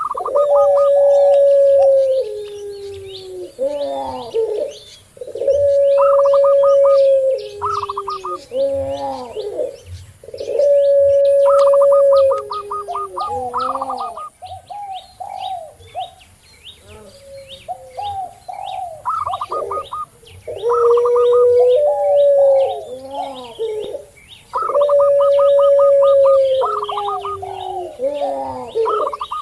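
Several caged doves cooing together. A puter pelung (long-voiced barbary dove) gives long drawn-out coos about every five seconds, each held on one pitch for about two seconds before dropping lower. Between them come the quick stuttering coos of a zebra dove (perkutut) and the calls of a spotted dove (tekukur), over a steady patter of faint high chirps.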